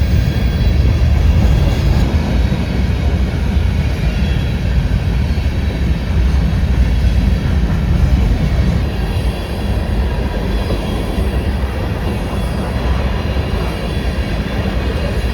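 A train passing close by: a loud, steady rumble of its cars rolling on the rails, easing slightly about two-thirds of the way through.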